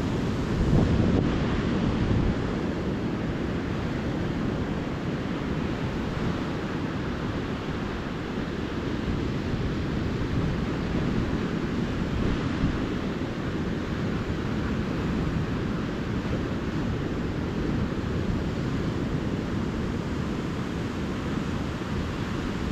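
Calm ocean surf washing steadily onto the beach, a continuous low wash with a slightly louder wave about a second in, and low rumbling wind on the microphone.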